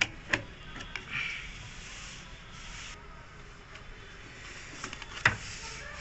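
Rubbing and scraping with a few sharp clicks and knocks, the loudest click near the end.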